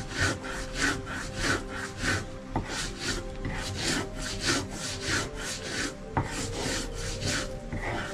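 Rhythmic rasping strokes, about two a second, of something being rubbed or rasped back and forth against wood.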